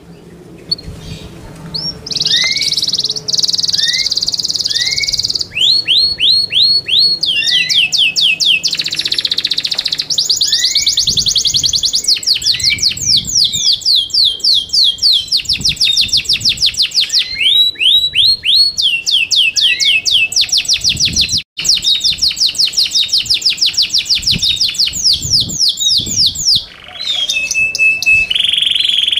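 Yorkshire canary singing: long, fast trills of rapidly repeated downward-sweeping notes, the song switching from one rolling phrase to the next every few seconds.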